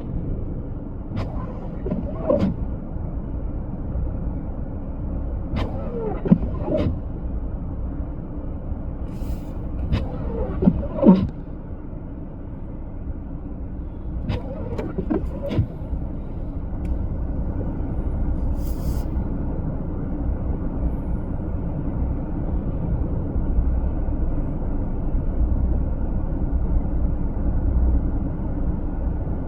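Blizzard wind rumbling steadily against the microphone. A few short sounds bend in pitch, about 2, 6, 11 and 15 seconds in.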